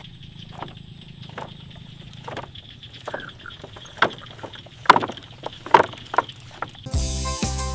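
Outdoor ambience: a steady low hum and a faint high steady tone under scattered, irregular knocks and clicks, a few sharper ones in the middle. Instrumental music starts near the end.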